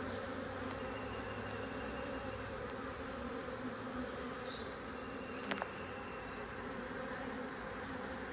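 Honey bee swarm buzzing, a steady hum from a trap full of bees. A single sharp click about five and a half seconds in.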